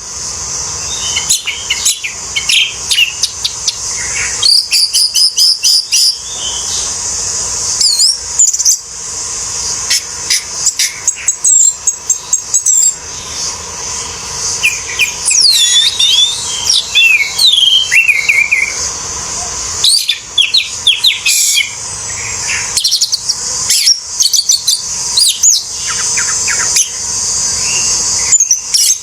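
Orange-headed thrush singing: varied phrases of quick gliding whistles and trills with short pauses between them, over a steady high hiss.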